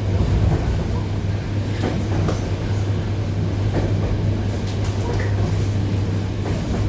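ED9E electric multiple unit heard from inside a car: a steady low hum with train noise and a few scattered knocks and clicks.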